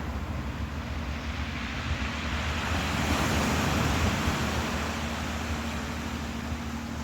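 Ocean waves washing in, a surge swelling about three seconds in and easing off, over a steady low hum.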